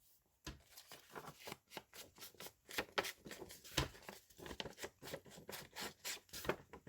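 An ink pad dabbed and rubbed along the edges of a paper journal page: quick, irregular scratchy strokes, several a second.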